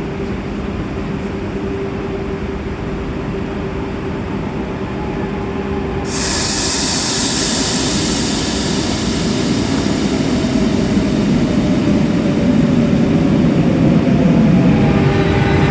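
RER A electric commuter train in an underground station: a steady hum, then about six seconds in a sudden loud hiss that slowly fades, followed by a rumble building up, with whining tones coming in near the end.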